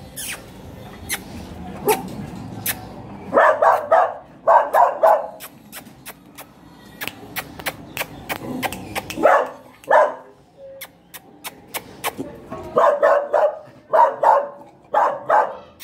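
Small dogs barking in quick bursts while they play. There are three rounds of barking: one about three seconds in, a short one near ten seconds, and a longer run near the end, with sharp clicks in between.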